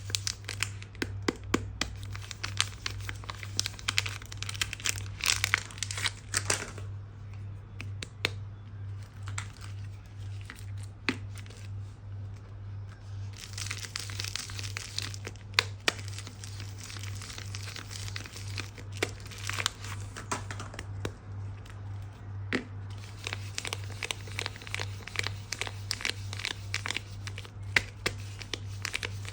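Soap wrappers being unwrapped: crinkling and tearing in close, crackly spells with short quieter pauses between, over a steady low hum.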